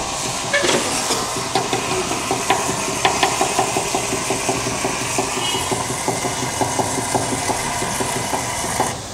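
Polyurethane foam gun spraying expanding foam into a wall gap: a steady hiss with a quick run of ticks, cutting off near the end as the trigger is released.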